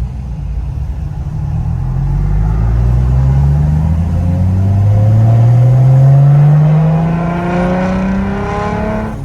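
A single-turbo BMW 335i's 3.0-litre inline-six is pulled hard through the revs in one gear, its note climbing steadily and growing loudest about two-thirds of the way through. This is the late-spooling turbo coming on boost high in the rev range.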